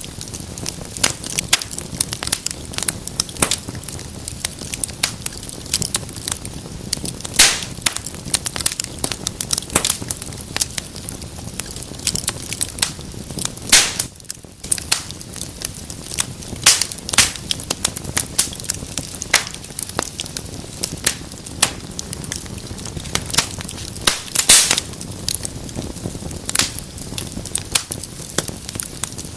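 Wood fire in a fireplace crackling, with a steady low hiss of burning and frequent sharp pops and snaps, a few much louder than the rest.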